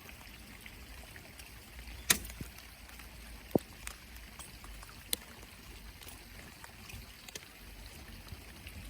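Small boat sitting on the water: a steady low rumble of wind and water, broken by three sharp clicks about two, three and a half, and five seconds in.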